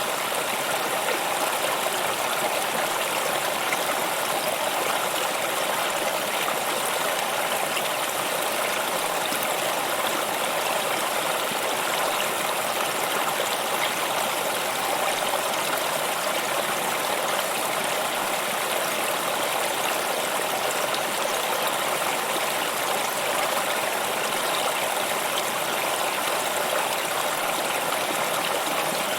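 Water stream flowing, a steady even rush of running water.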